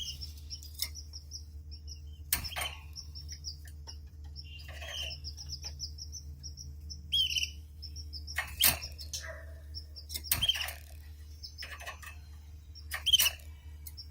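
Pet canaries chirping and trilling: rapid runs of repeated high notes, broken by several short sharp sounds, the loudest near the end. A steady low hum runs underneath.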